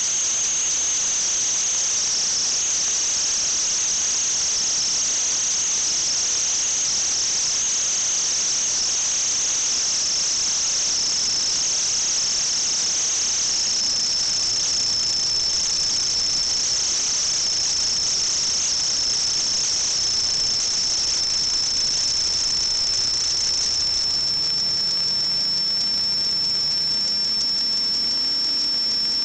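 A steady high-pitched whine with hiss, its pitch sinking slightly and settling into one steady tone about halfway through. A faint low hum creeps up near the end.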